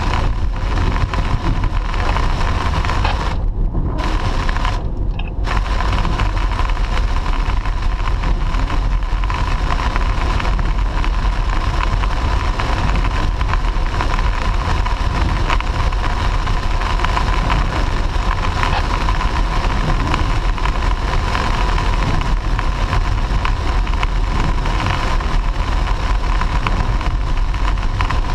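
Steady road and engine noise inside a moving car, heaviest in the low end, with a constant hum near 1 kHz. The higher part of the noise cuts out twice, briefly, a few seconds in.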